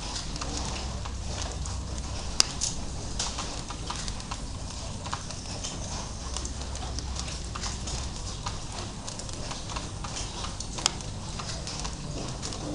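Drizzle falling: irregular ticks and taps of raindrops over a steady hiss, with two sharper, louder ticks, one about two seconds in and one near the end.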